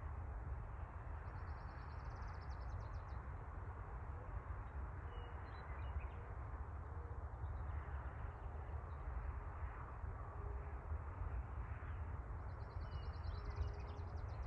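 Outdoor ambience: a steady low rumble with a soft hiss. Twice, near the start and near the end, comes a high, rapid trill lasting about two seconds.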